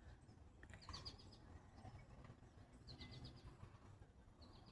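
A songbird singing faintly: three short phrases, each a quick run of five or six high notes, about every one and a half to two seconds.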